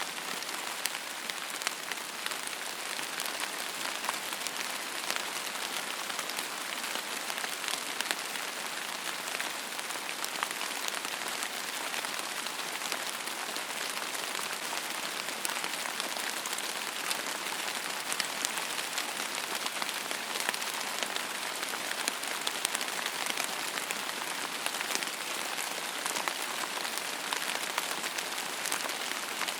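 Steady rain falling on a surface, an even hiss with many close individual drop ticks scattered throughout.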